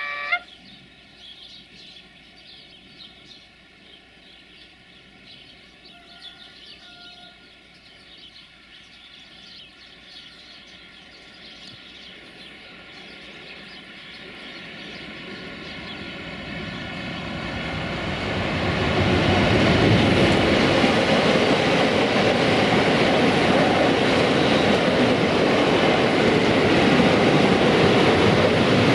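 A French-built BB 25500-class electric locomotive and its long car-transporter freight train approach and pass, growing steadily louder for about twenty seconds. The noise then levels off into the loud, steady rolling of wheels on rails as the loaded wagons go by. At the very start the last moment of a horn blast cuts off.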